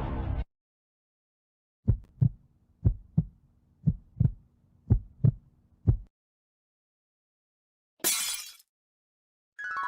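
Heartbeat sound effect: about five deep double thumps, lub-dub, one beat a second. A short, sharp noisy burst follows near the end, like something breaking.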